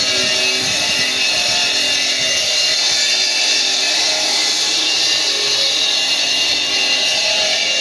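Power tool cutting stone, running steadily with a hissing, high-pitched grind, under background music.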